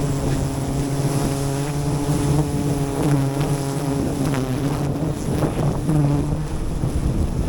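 A steady low drone with even overtones, like a small motor or a close swarm of bees, over wind noise on the microphone. The drone fades out a little past six seconds in.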